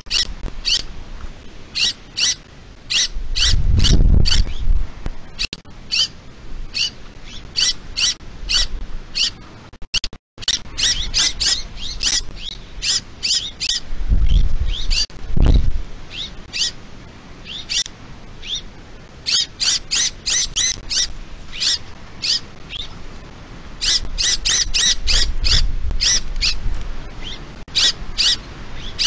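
Birds calling: short, high calls repeated in quick runs throughout. Three low rumbles come and go, about 4 s, 15 s and 25 s in.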